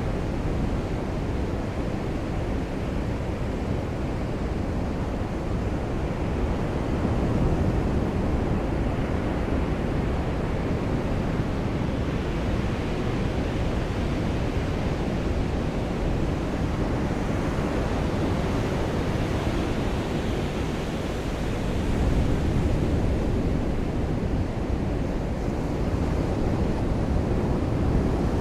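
Surf washing onto a beach: a steady low rush of breaking waves that swells a few times.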